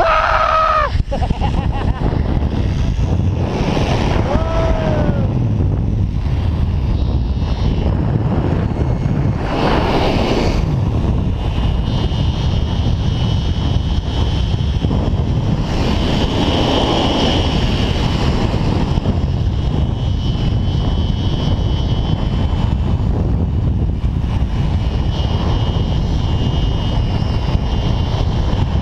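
Wind rushing over the microphone during a zip line ride, with the trolley running along the cable, a loud, steady rush. A rider whoops about four seconds in, and a thin high whine rises and fades several times from about twelve seconds on.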